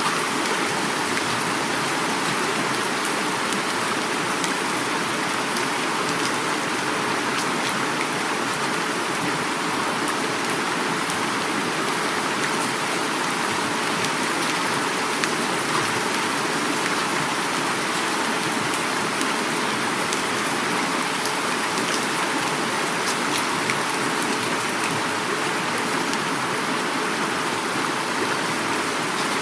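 Heavy rain falling, a dense, steady hiss of drops with fine patter on top, mixed with the rushing of a flowing river.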